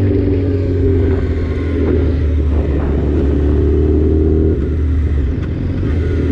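Motorcycle engine running steadily, its note changing slightly about four and a half seconds in.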